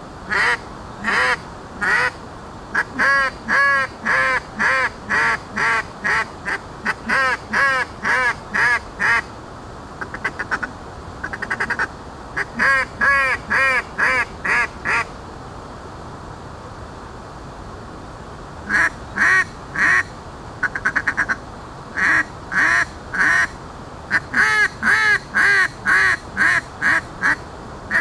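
Handmade duck call blown in strings of quacks, with two short bursts of fast chatter and a pause of a few seconds around the middle.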